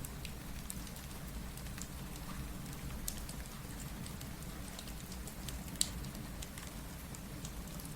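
Rain mixed with a crackling wood fire: a steady low rumble and hiss under scattered sharp crackles and drips, with one louder pop about six seconds in.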